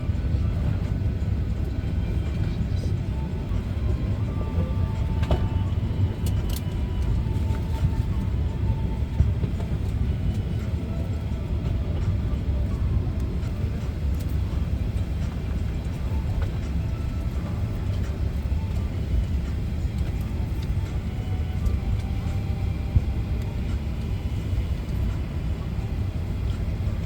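Steady low rumble of an airliner cabin, the hum of the aircraft's engines and air systems, with a few faint clicks.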